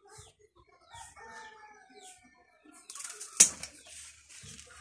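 A chicken clucking, with a short falling call early on. About three and a half seconds in, a stretch of rustling contains one loud sharp snap.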